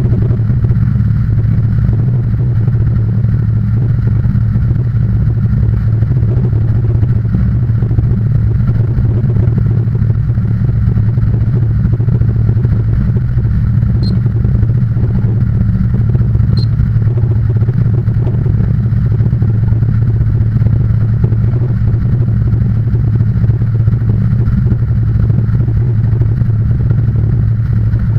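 An engine running steadily with a constant low drone, with a couple of faint ticks midway.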